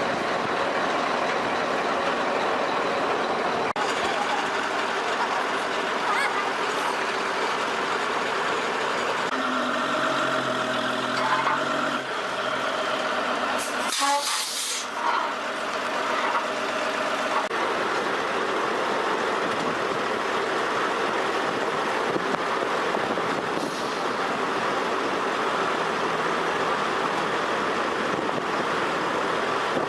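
Heavy truck and machinery noise, a continuous engine and road rumble, changing character several times. About fourteen seconds in there is a short, loud hiss.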